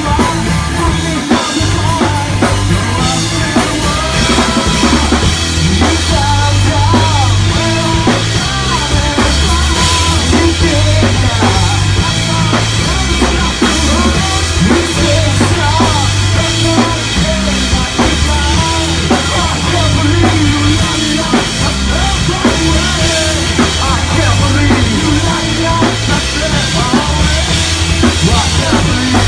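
Live rock band playing an instrumental passage: a full drum kit and a stepping bass line under a lead line that bends up and down in pitch.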